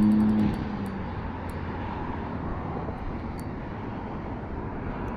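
Steady outdoor background noise, a low rumble and hiss, with a few faint clicks. A low steady hum fades out within the first second.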